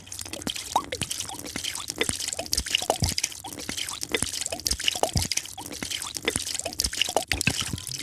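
A drink being poured, heard as a quick run of small drips and bubbly plops, several a second, over a steady high hiss.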